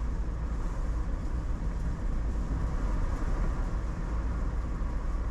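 Steady road and engine noise of a car being driven, with a deep, even rumble.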